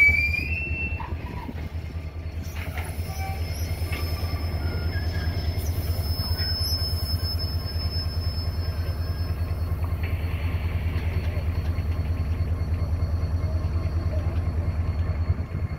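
Iron ore train's hopper wagons rolling slowly through the station with a steady low rumble. A short rising wheel squeal sounds right at the start, and a long, thin, high squeal runs from about three to ten seconds in.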